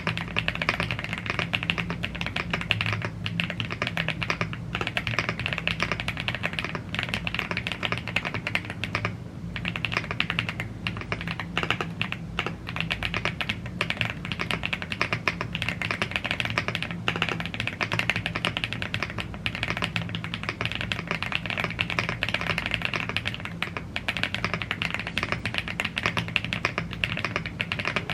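Continuous fast typing on a YUNZII AL75 gasket-mounted aluminium mechanical keyboard with Blue Grey tactile switches and double-shot PBT Cherry-profile keycaps: a dense, even clatter of key presses, with a brief let-up about nine seconds in.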